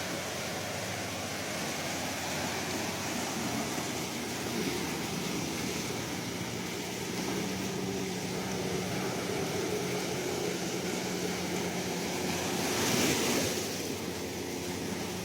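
Sea waves washing steadily onto the shore, with one wave surging a little louder about thirteen seconds in. A faint steady low hum runs underneath.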